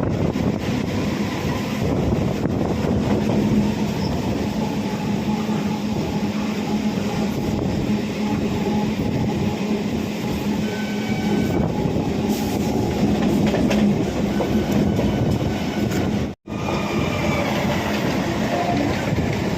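Electric suburban EMU local train running along the track, heard from on board: a steady rumble of wheels and rails with a low, even hum and faint brief wheel squeals. The sound cuts out for an instant about sixteen seconds in.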